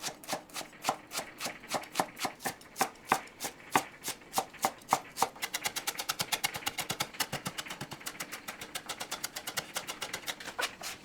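Knife chopping on a cutting board in a steady rhythm, about three strokes a second, speeding up to roughly twice that rate about halfway through.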